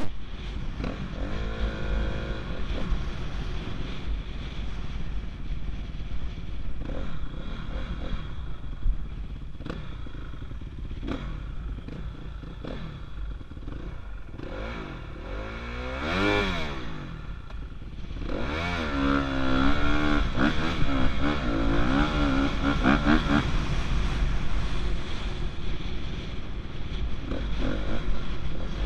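Motocross dirt bike engine running and revving as it rides, rising and falling in pitch. About halfway through there is a quick rev up and back down, then a longer hard pull held high for several seconds.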